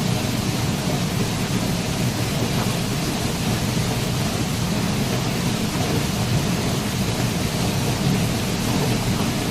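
Waterfall: a steady, unbroken rush of falling water, with most of its weight in a deep low rumble.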